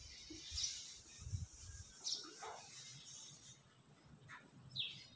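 Birds give a few short, high chirps, three in all, over a faint background. A chalkboard eraser rubs softly against the board in the first second and a half.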